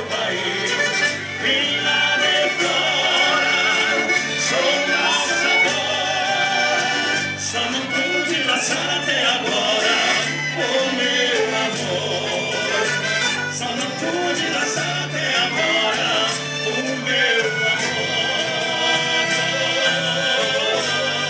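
Live band playing the instrumental introduction of a milonga, with a steady bass line under the melody.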